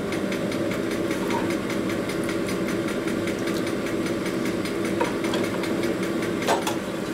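Motor-driven 7/8-inch reamer cutting through a Harley panhead rocker arm bore with a steady hum and faint regular ticking. The cut runs smooth and even, with a couple of sharper clicks near the end.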